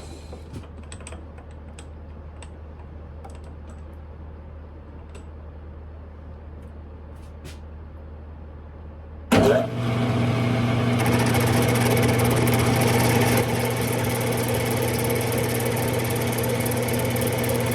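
Smithy lathe stopped for several seconds, with only a low hum and a few light clicks of handling, then its motor starts abruptly about nine seconds in and runs steadily with an even hum. A higher hiss joins a couple of seconds after start-up.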